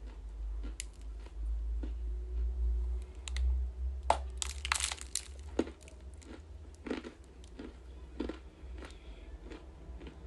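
Close-miked biting and chewing of ice. A dense burst of sharp crackling crunches comes about four seconds in, then single chewing crunches about every two-thirds of a second, over a steady low hum.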